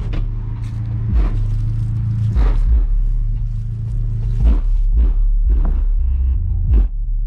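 Bass-heavy music played loud through a car's two 8-inch subwoofers run by an Alpine amp: a deep, steady bass line with sharp drum hits every second or so.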